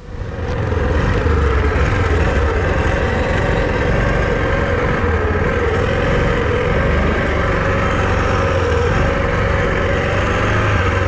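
ATV engine running steadily under way, swelling up about half a second in and then holding an even drone.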